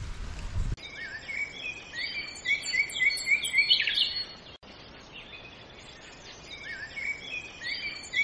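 Wind rumbling on the microphone for under a second, then bird song: a songbird repeating a phrase of short rising chirps. It fades, drops out for an instant about four and a half seconds in, and the same phrase starts over near the end.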